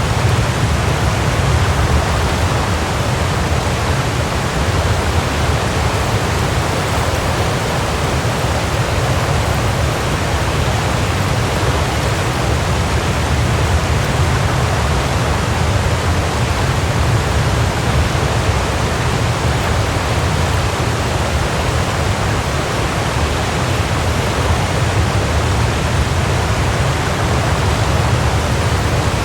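Waterfall: water falling and splashing, a steady, unbroken rush with a deep low rumble under it.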